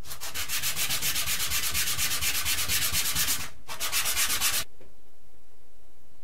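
Hand sanding of a rubber-band revolver part: quick, even back-and-forth strokes, about ten a second, for roughly three and a half seconds. After a brief pause there is a shorter second run of strokes, then it stops about four and a half seconds in.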